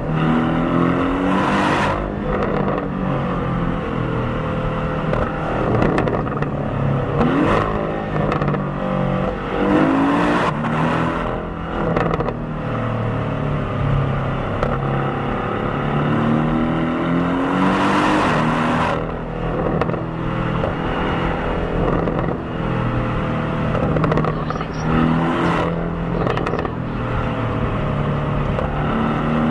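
2018 Porsche 718 Cayman's stock turbocharged 2.0-litre flat-four, heard at the exhaust and in the cabin, pulling through the gears. Its revs rise and drop again several times as it accelerates and shifts.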